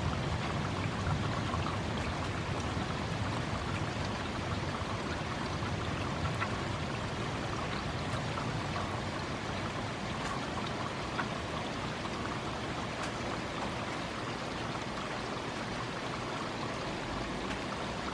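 Steady rain from a thunderstorm, with scattered clicks of raindrops striking the microphone.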